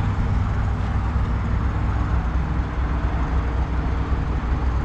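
Semi-truck diesel engine idling: a steady low rumble with no change in speed.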